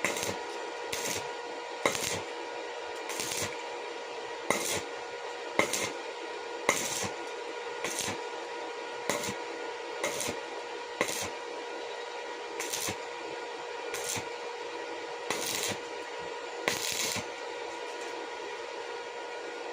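Hand-tool work on a workpiece: short sharp strokes, about one a second and unevenly spaced, over a steady electrical hum.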